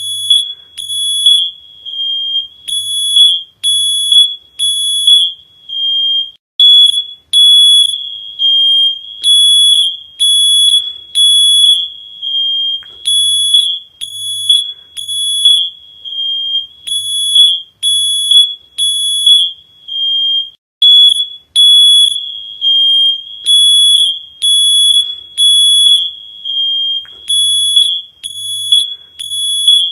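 High-pitched electronic alarm beeping, mostly in groups of three short beeps with brief pauses between groups, repeating throughout.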